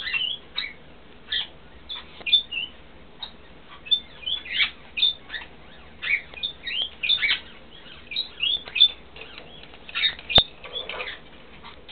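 Birds chirping: a quick, irregular stream of short, high chirps, several a second, with one sharp click near the end.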